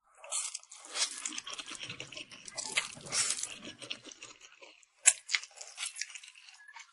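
Close-miked eating: a person chewing with dense, crackly mouth sounds and a sharp bite or crunch about five seconds in.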